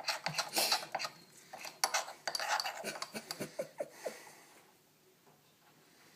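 A spoon clinking and scraping against a small dish in quick, irregular clicks, stopping about four and a half seconds in.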